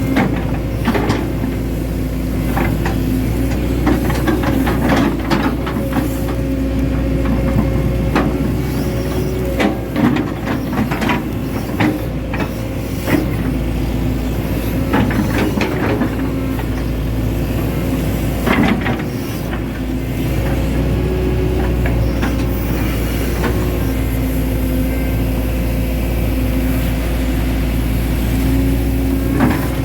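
Hitachi Zaxis 110 excavator's diesel engine running steadily under working load, its pitch shifting now and then, with scattered sharp clanks and knocks from the machine at work.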